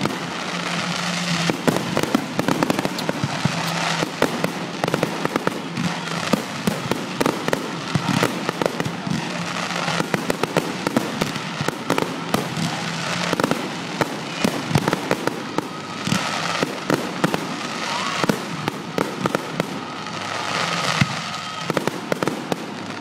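Fireworks display: a dense, continuous run of bangs and crackling from exploding aerial shells, with many sharp reports in quick succession.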